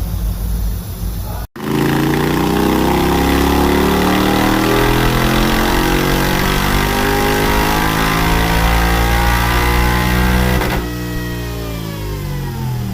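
Honda X-ADV 750's parallel-twin engine through an Akrapovic exhaust with its dB killer removed, its pitch climbing steadily for about nine seconds, then the throttle closes near the end and the pitch falls away.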